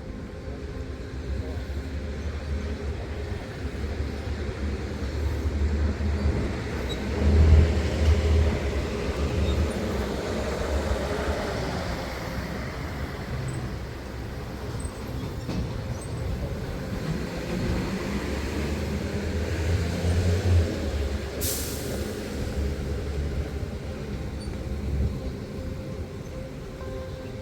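Low rumble of passing vehicles that swells twice and fades, with a faint steady hum and a single sharp click near the two-thirds mark.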